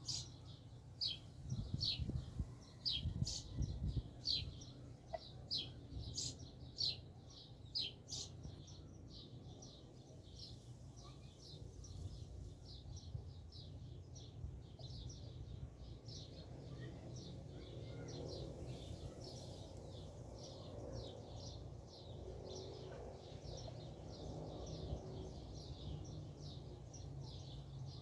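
Small birds chirping: short, high chirps repeating steadily, a couple a second at first and quicker and denser later. A few low thumps come about two to four seconds in.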